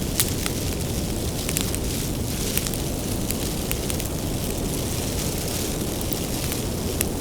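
Bonfire of burning firewood crackling: a steady low rumble from the flames, with frequent sharp pops and snaps scattered through it.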